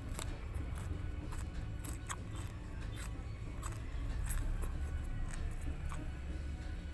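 Close-miked chewing and lip-smacking on boiled sweet potato tops, with scattered wet mouth clicks over a steady low hum.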